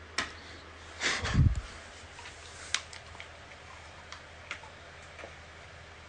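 Dog chewing a treat: scattered sharp crunching clicks, with a heavier thump about a second in.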